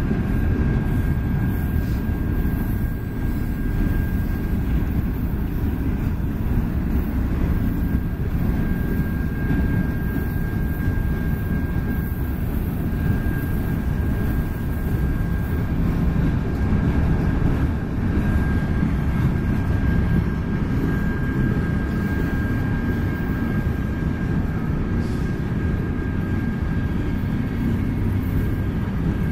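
Freight cars of a mixed manifest train rolling past: a steady low rumble and clatter of steel wheels on the rails, with a thin, steady high tone over it.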